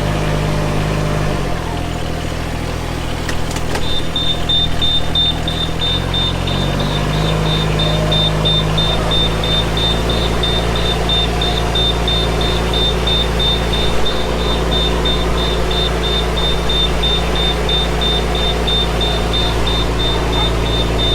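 Yanmar VP80DX rice transplanter engine running steadily. Its speed drops about a second and a half in and picks up again a few seconds later. From about four seconds in, a high-pitched warning buzzer beeps fast and evenly.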